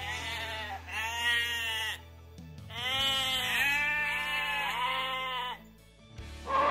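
Sheep bleating: two long bleats, a pause of about a second, then three more in a row, each rising and falling in pitch.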